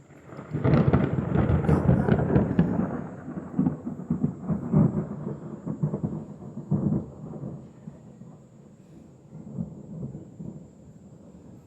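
Thunderclap: a sudden crackling crash about half a second in, then rolling rumbles that die away over the next several seconds.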